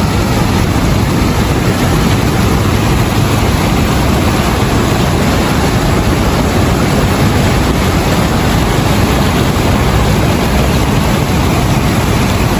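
Steady, loud rush of water pouring through a dam spillway, an even roar with no breaks.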